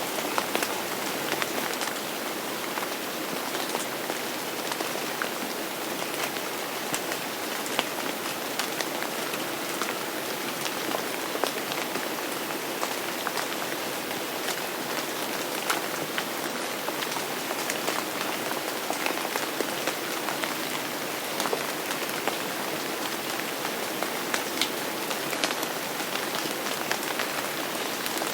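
Steady rain falling on a surface, an even hiss of rain with many individual drops ticking through it.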